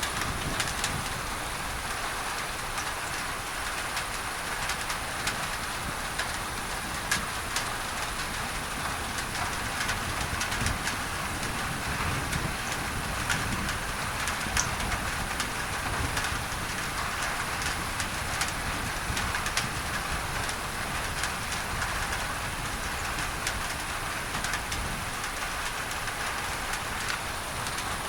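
Steady heavy rain on a tin roof, with dense pattering drops over an even masking hiss.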